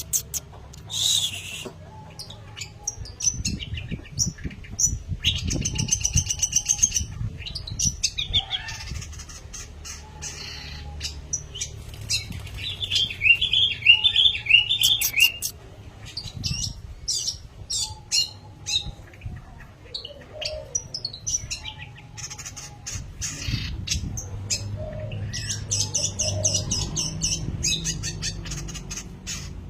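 Long-tailed shrike (pentet) singing vigorously: a varied run of chattering notes, clicks and short trills, with a low rumble underneath.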